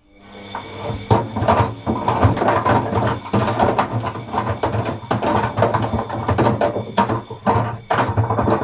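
Atlant 50U101 front-loading washing machine starting a drum rotation: the motor comes up over about a second and then runs steadily while the paint rollers and brushes inside knock and clatter irregularly against the drum.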